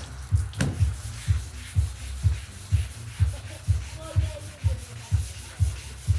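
180-grit wet sandpaper rubbed back and forth over a fiberglass boat's primed, patched surface, in a steady rhythm of about two strokes a second with a fine gritty hiss.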